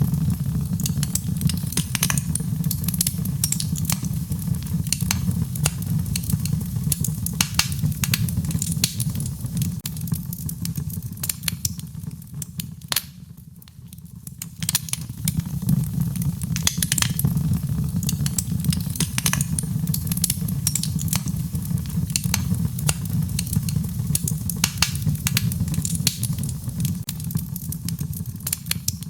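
Wood fire burning in a fireplace, crackling with frequent sharp pops over a steady low rumble of the flames. The rumble and crackle ease off briefly about halfway through, then pick up again.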